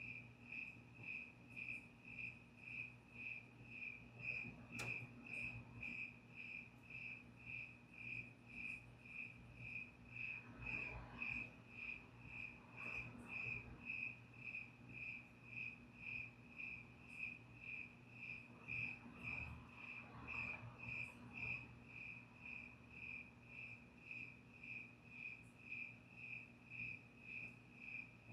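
Cricket chirping steadily, about two short chirps a second, over a faint low hum, with a single click about five seconds in.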